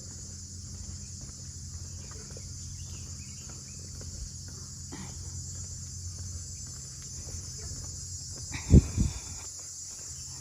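A steady high-pitched chorus of crickets, with faint footsteps on the trail and a sudden low thump nearly nine seconds in, followed by a softer one.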